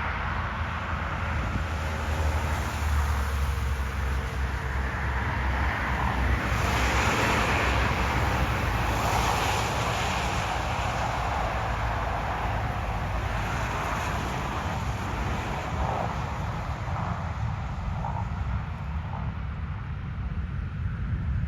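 Jet engine noise from an Airbus A320 airliner: a steady rush over a deep rumble that swells about six seconds in and then eases off, with wind on the microphone.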